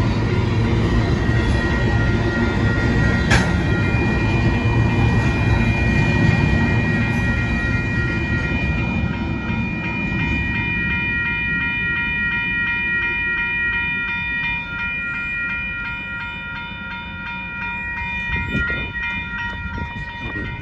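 Loaded covered hopper cars of a freight grain train rolling past with a heavy rumble and wheel clatter, which fades away after the last car clears about halfway through. Over it the grade crossing's warning bell rings steadily, its quick pulsing tones left on their own once the train has gone.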